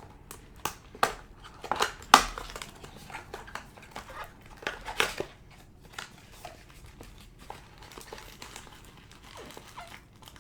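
Wrappers of baseball card packs crinkling and rustling as the packs are handled. There is an irregular run of sharp crackles, loudest about two seconds in and again about five seconds in, then quieter rustling.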